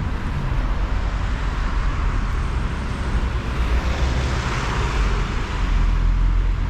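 Road traffic going by: a passing vehicle's noise swells and fades about halfway through, over a steady low rumble.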